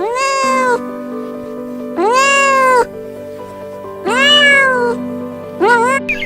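Cat meowing four times, about two seconds apart: each call rises then falls, and the last is shorter. Background music plays steadily under the calls.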